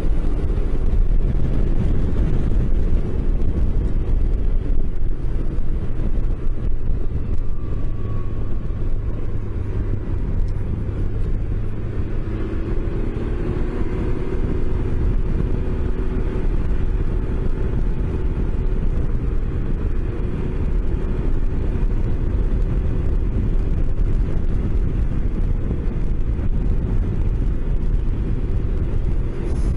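A road vehicle's engine running steadily with a low rumble of road and wind noise, its pitch drifting slowly up and down with speed.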